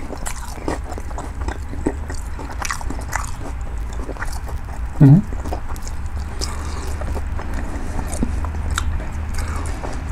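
A person chewing a bite of battered fried cod close to the microphone: small wet crackling clicks of the crust throughout. A short low hum comes about halfway through, over a steady low hum underneath.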